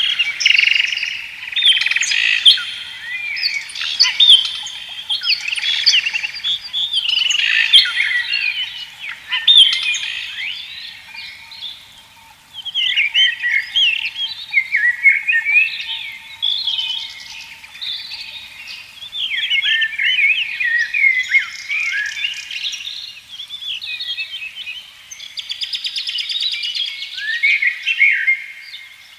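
Several birds singing and chirping together, a busy chorus of quick swooping notes that drops away briefly about twelve seconds in, with a faint steady hum beneath.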